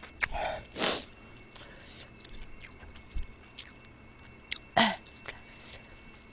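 Close-miked eating sounds from a mouthful of spicy chicken feet: small wet clicks and smacks of chewing and sucking, with one louder breathy sound about a second in and a brief hum near five seconds.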